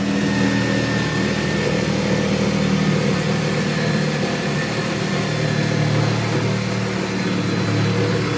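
An engine running steadily at a raised, even speed, a low hum under a hiss that holds level throughout.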